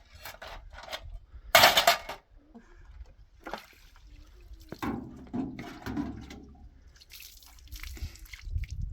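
Water being poured and splashing in short irregular spells, with scattered small knocks and clicks; the loudest splash comes about two seconds in.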